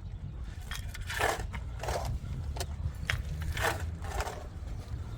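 Repeated scraping strokes of a hand tool on a hard, gritty surface, coming roughly once a second over a steady low rumble.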